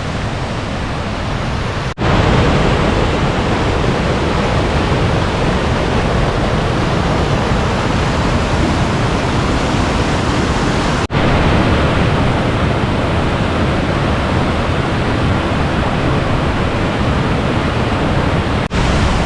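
Waterfall rushing, a loud steady roar of falling water that breaks off for an instant three times.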